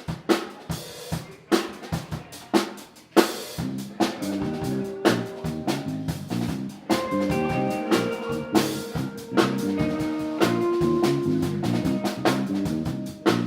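A live band opens a tune with a drum kit groove of snare, rimshots and bass drum. Bass comes in about three or four seconds in, and held notes from other instruments join about halfway through.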